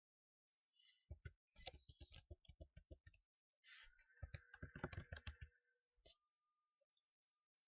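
Typing on a computer keyboard: two quick runs of keystrokes, one about a second in and another from about four to five and a half seconds, then a single key click.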